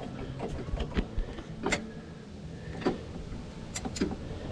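Scattered sharp clicks and knocks of hand work on a car's starter mounting as it is loosened and shifted, five or six of them a second or so apart.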